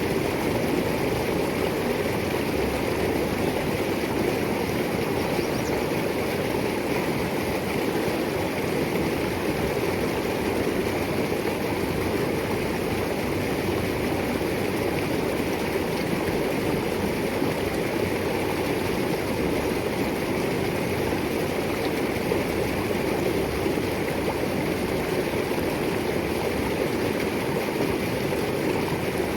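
Small stream rushing and gurgling over river rocks, a steady, unbroken water noise.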